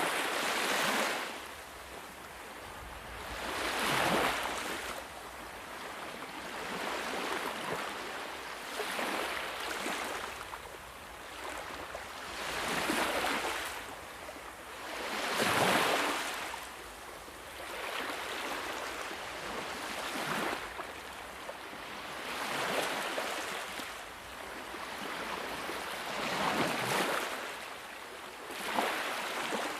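Sea waves washing onto a shore: a steady hiss that rises into a louder surge every two to four seconds, about nine times.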